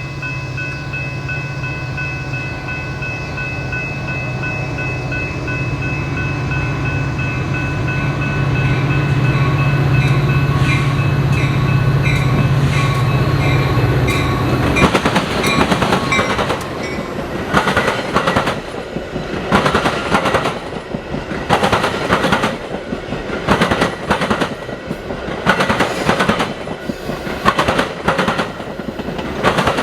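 Freight train passing: a diesel locomotive's engine drone with a steady whine builds for about fifteen seconds, then gives way to the rhythmic clatter of wheels over rail joints as the cars roll by.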